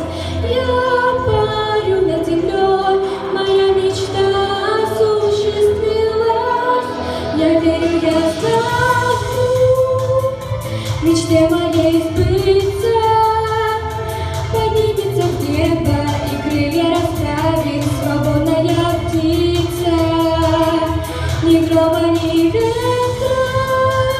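A young girl singing a pop song over a backing track, with a choir-like backing in the mix.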